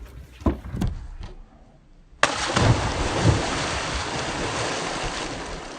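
A few soft thumps, then a person jumping into a swimming pool: a sudden loud splash about two seconds in, followed by a rush of churning water that slowly fades.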